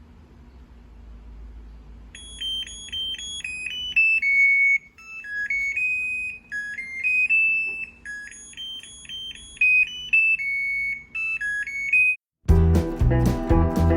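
Sharp ESX159 washing machine's end-of-cycle alarm: a beeped electronic melody lasting about ten seconds, which signals that the wash is finished. Background music comes in just after it ends.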